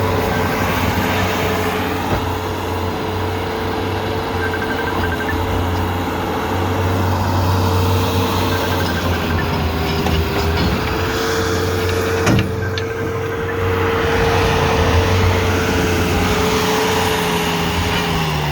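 Bobcat skid-steer loader's engine running steadily under load with a constant whine, dipping briefly about ten seconds in and falling in pitch at the very end as it throttles down; a single sharp knock about twelve seconds in.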